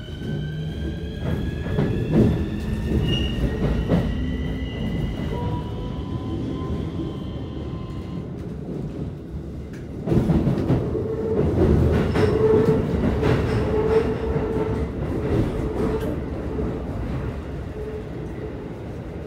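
Keikyu 1000 series train's Siemens IGBT-VVVF inverter and traction motors whining as the train accelerates, heard from inside the car, several tones rising in pitch over the first eight seconds or so. About ten seconds in, the wheel and rail noise gets louder, a heavier rumble with rail-joint clicks that slowly eases.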